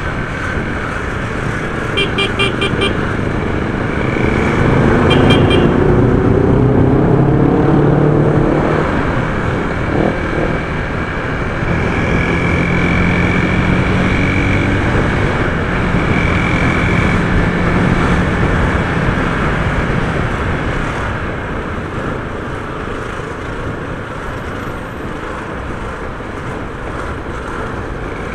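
Honda CG 150 single-cylinder four-stroke engine running while riding in traffic, rising in pitch as it accelerates a few seconds in and again midway, with wind on the microphone. Short horn beeps sound about two seconds in and again around five seconds.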